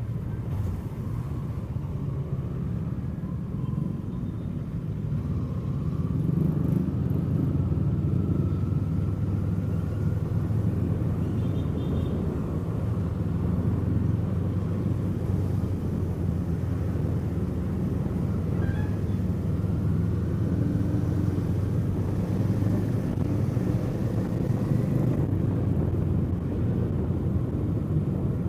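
Kawasaki Eliminator SE's parallel-twin engine running under way, a steady low rumble that gets a little louder about six seconds in.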